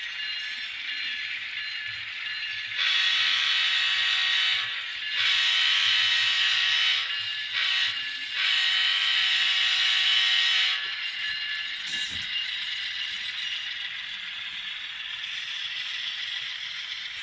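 DCC sound decoder of an N-scale ScaleTrains GE ET44 (GEVo) model locomotive playing its diesel running sound through a tiny speaker. The horn sounds in the grade-crossing pattern: long, long, short, long, starting about three seconds in. A brief click a little after the horn.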